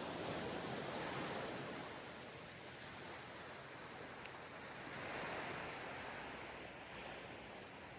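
Small ocean waves breaking and washing up a sandy beach: a hiss that swells and fades, with a second wave about five seconds in.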